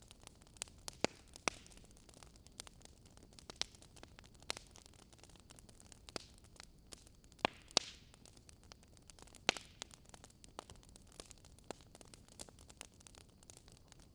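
Wood fire crackling: irregular sharp pops and snaps over a faint steady hiss, a few louder pops standing out.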